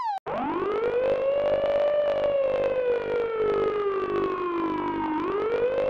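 Processed police car siren sound effect: after a brief cut-off at the start, a slow wail rises over about two seconds, sinks over the next three, then rises again. It has a grainy, rasping undertone.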